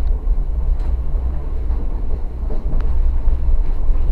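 Moving train heard from inside the passenger carriage: a steady deep rumble of the wheels running on the track, with one faint click about two-thirds of the way through.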